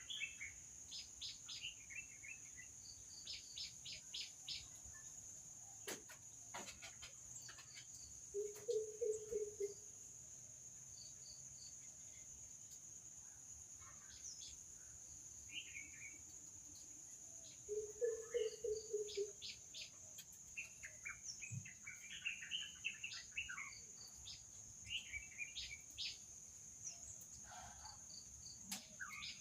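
Outdoor birdsong: many short, high chirps in quick series over a steady, high-pitched insect drone, with a louder run of low, rapid pulsed calls heard twice, about eight seconds in and again near eighteen seconds.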